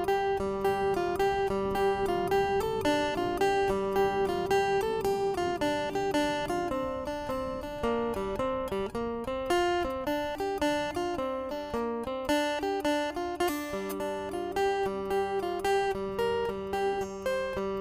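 Acoustic guitar music: plucked notes in a steady, repeating picking pattern.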